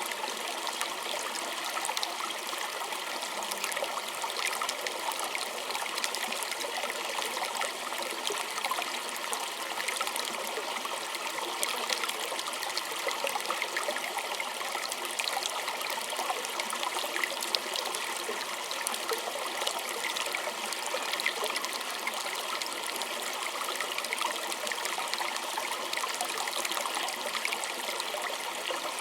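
A small stream running and trickling over stones, a steady babble of water with fine splashing detail.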